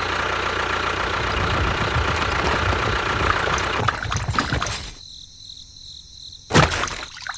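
An engine running steadily with a pulsing low rumble for about five seconds, then cutting out; a short, loud burst of noise comes near the end.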